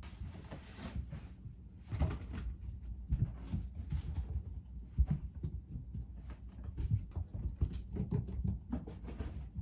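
Kittens romping around a small room: scattered light thumps, knocks and rustling, with one sharper knock about five seconds in.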